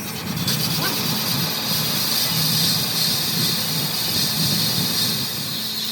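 Workshop machinery running steadily: a continuous mechanical noise with a high hiss over a low rumble.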